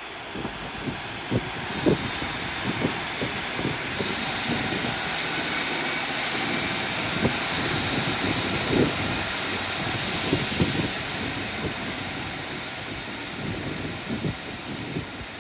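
Passenger train running at the platform, with a faint whine slowly rising in pitch and a short burst of hissing air about ten seconds in. Wind buffets the microphone throughout.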